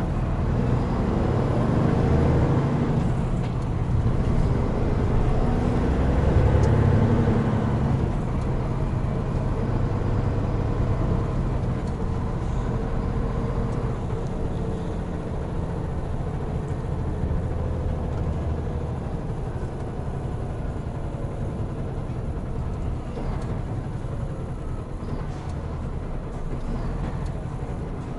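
Hino Profia heavy truck's diesel engine running under way, with road noise. It is loudest in the first few seconds and then grows gradually quieter.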